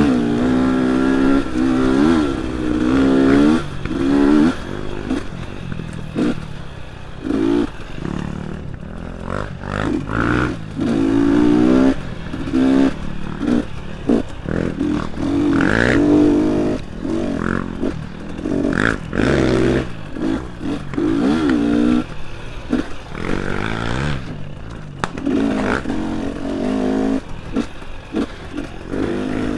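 Dirt bike engine revving up and falling back again and again as the throttle is worked over technical single track.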